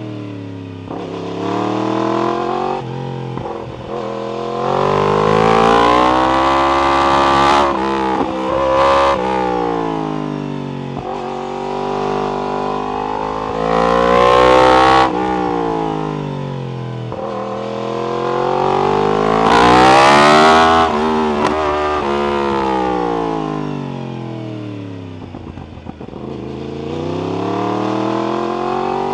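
Yamaha R1 sport bike's inline-four engine through an Akrapovic exhaust, revving hard under acceleration and then easing off. The engine note climbs steeply and drops again several times.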